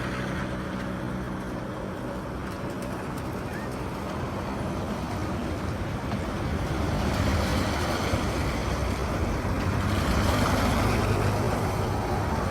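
Street traffic: motor vehicle engines running, with a vehicle passing close and growing louder from about seven seconds in.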